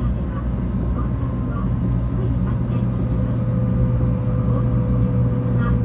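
Cabin noise inside a 700 series Shinkansen running on the line: a steady low rumble, with a faint steady hum becoming clearer about halfway through.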